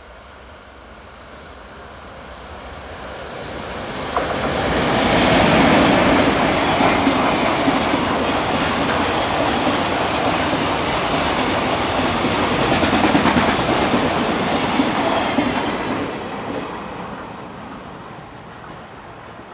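EF510 electric locomotive hauling a long container freight train past at speed. It grows louder as it approaches, is loudest about five seconds in, keeps up a steady rolling din as the container wagons pass, and fades away near the end.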